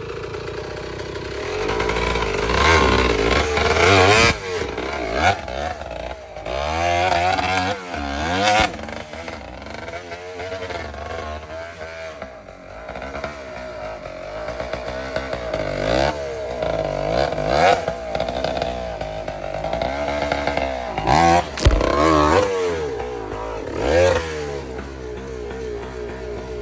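Dirt bike engine being ridden, its pitch rising and falling over and over as the throttle is opened and closed, with several louder revs along the way.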